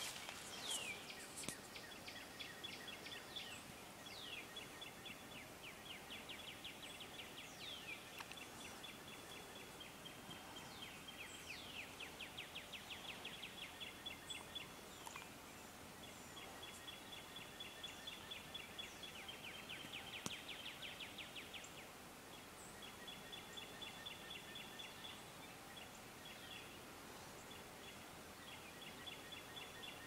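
Faint birdsong: one bird repeats a rapid, even, high trill of one to two seconds every few seconds, and other birds give short, high, down-slurred calls in between.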